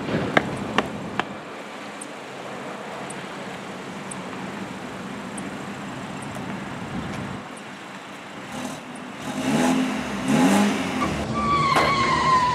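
Quick footsteps on pavement at the start; later a car engine revs up twice and accelerates, followed near the end by a high, steady squeal.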